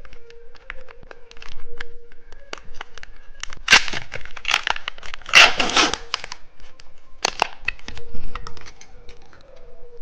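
Plastic wrapper of a small gummy candy being crinkled and torn open: crackling handling throughout, with two louder tearing rips about four and five and a half seconds in.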